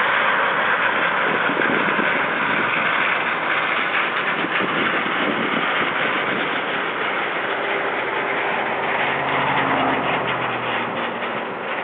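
Farm machinery engine running steadily, with a low engine hum coming up more clearly near the end.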